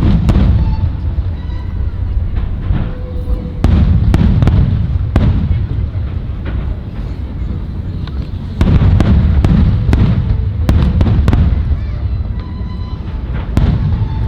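Fireworks display: aerial shells bursting one after another with sharp bangs over a deep, rolling rumble. The bursts come in dense barrages, about 4 s in, from about 9 to 11 s in, and again near the end.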